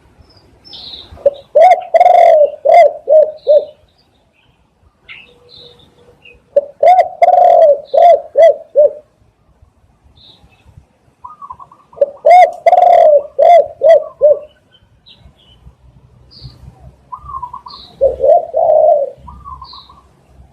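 Spotted dove cooing: four phrases a few seconds apart, each a longer coo run into a quick series of shorter coos. Faint high chirps of small birds come between the phrases.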